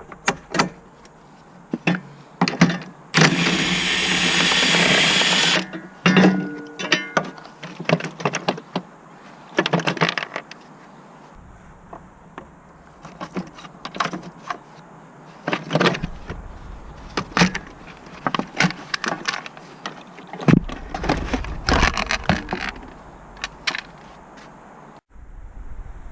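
Metal tools clanking and clicking against car parts during clutch replacement work, with one loud continuous burst of about three seconds a few seconds in.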